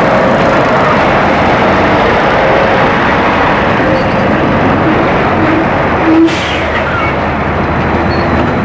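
Loud, steady noise of heavy vehicles passing close by, with a short sharp burst about six seconds in.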